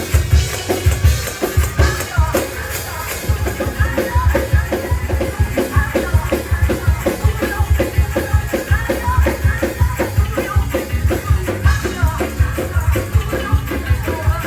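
Live praise-break music: drums and tambourine playing a fast, steady beat.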